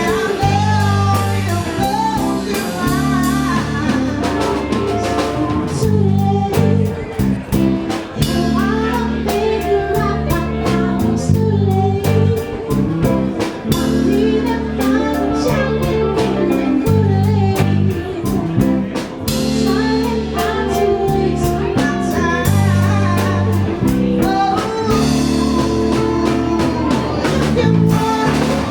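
A band playing a bluesy song with guitar and drum kit, a singer's voice coming in at points over a steady low bass line.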